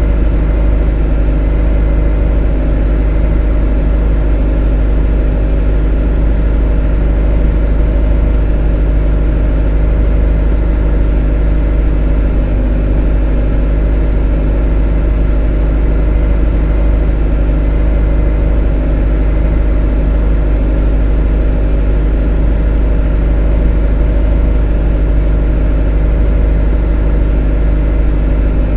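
A motor running steadily with a deep, unchanging hum and a stack of steady overtones above it, loud and even throughout.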